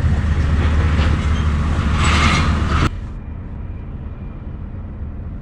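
Scania V8 diesel truck engine running with a steady low rumble, with a brief hiss about two seconds in. About three seconds in the sound drops abruptly to a quieter low engine hum.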